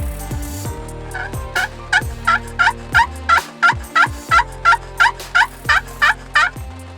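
Wild turkey calling: a long run of about sixteen evenly paced notes, about three a second, each dropping in pitch, swelling to loudest in the middle and easing off near the end. Background music runs underneath.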